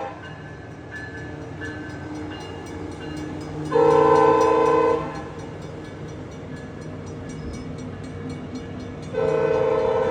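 A passenger train's multi-note air horn sounding in blasts. One blast ends as the sound begins, a shorter blast of about a second and a half comes about four seconds in, and another starts near the end. Between the blasts the train's steady rumble carries on with faint clicking.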